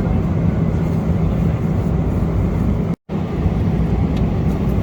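Steady engine and airflow noise inside the cabin of a Boeing 777-300ER in cruise, with a brief cut to silence about three seconds in.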